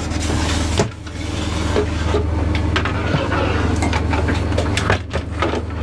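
Caravan window blind assembly being slid into its frame, with rustling scraping and a few small clicks, over a steady low mechanical hum.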